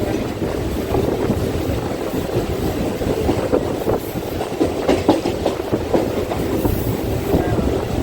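Indian suburban local train running, a steady heavy noise with a few sharp knocks from the wheels over rail joints about five seconds in.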